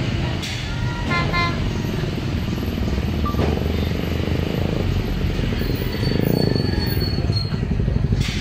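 PNR train passing with a steady low rumble, with two short horn toots about a second in.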